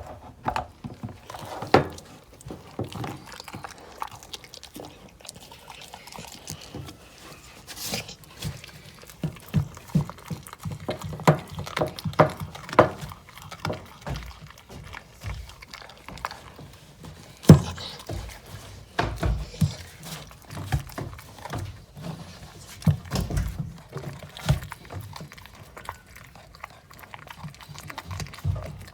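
American Bully dog crunching and gnawing on raw deer bones: a run of irregular cracks and crunches with low thuds of the jaws, and one especially sharp crack about two-thirds of the way through.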